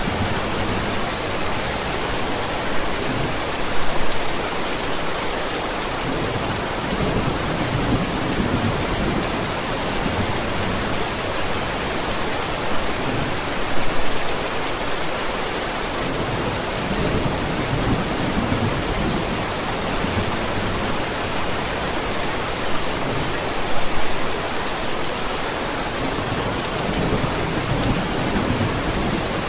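Steady heavy rain hissing, with low thunder rumbles swelling and fading every few seconds. A brief louder burst comes about every ten seconds.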